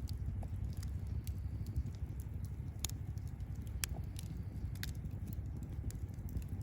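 Wood campfire crackling: sharp pops and snaps at irregular intervals over a low steady rumble, with two louder pops about three and four seconds in.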